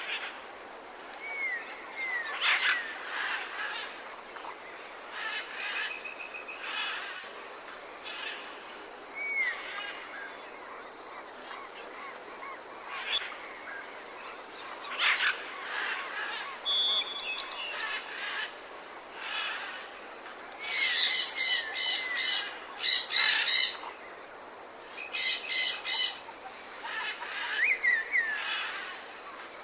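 Parrots chirping and whistling over a steady background hiss. Two runs of fast repeated calls, the loudest sounds, come a little past two-thirds of the way in.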